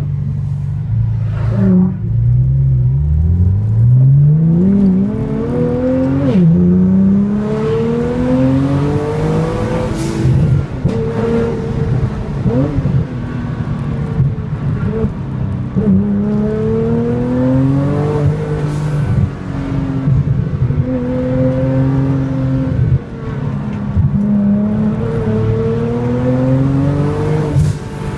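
Nissan GT-R with the AMS Alpha 12 package, its twin-turbo V6 heard from inside the cabin accelerating hard through the curves. The engine note climbs repeatedly, falls sharply at the gear changes and eases off between bends.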